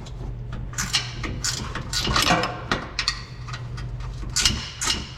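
Irregular metal clanks and clicks of hand tools working on a pickup truck's front suspension, over a steady low hum.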